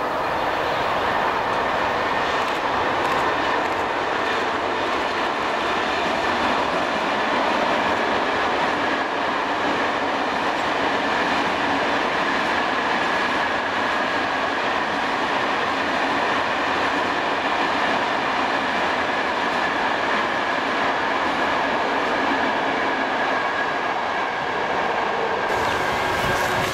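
Freight train of covered goods wagons rolling across a masonry railway viaduct: a steady noise of wheels on rails with a faint high tone over it.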